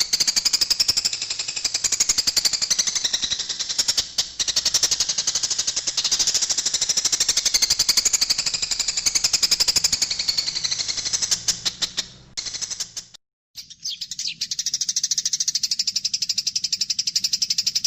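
Eurasian tree sparrows chattering in a fast, dense, unbroken run of high chirps: the agitated calls of sparrows fighting. The chatter breaks off for a moment about 13 seconds in, then resumes.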